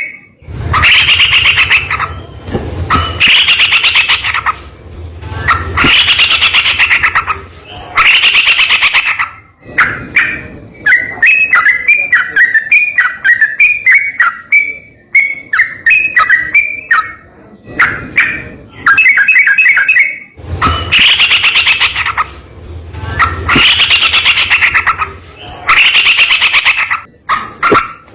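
Yellow-vented bulbul (trucukan) singing loudly in repeated rolling bursts of very rapid notes, each about a second long and coming roughly every two seconds. In the middle these give way to a run of separate short falling chirps for several seconds.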